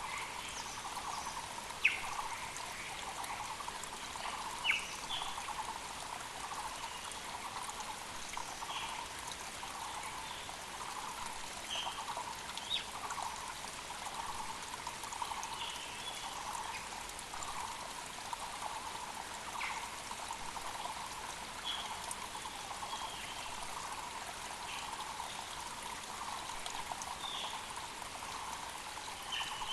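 Mountain creek flowing steadily under a Muller's barbet calling one low note over and over, about once a second, with short high chirps from other birds scattered through. Two sharp clicks stand out early on.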